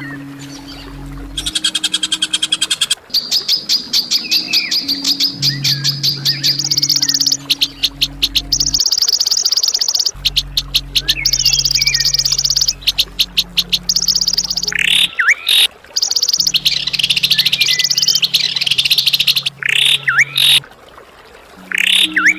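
A songbird giving long runs of very fast, rattling trills of sharp high notes, with short sliding whistled notes in between, over a low steady musical drone.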